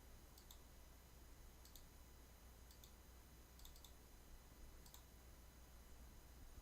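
Near silence with faint computer-mouse clicks, a quick double click about once a second, over a low steady hum.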